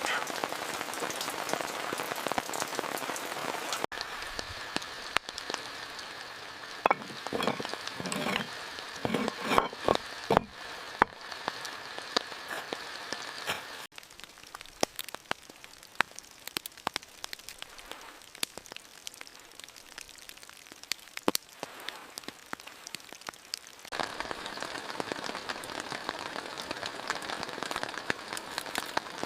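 Heavy rain pattering on a surface, with many sharp individual drops. A few louder, duller knocks come about seven to eleven seconds in, and the rain's sound changes abruptly three times.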